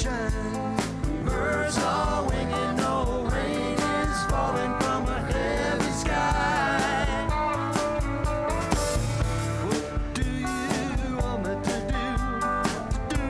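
A live band playing a song: drums keeping a steady beat under guitars, with a singing voice over them.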